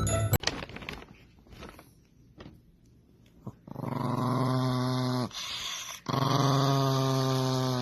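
A dog growling in two long, low, drawn-out growls, one starting about four seconds in and the next about six seconds in, each lasting about a second and a half. A few soft clicks come before them, and a chiming jingle cuts off right at the start.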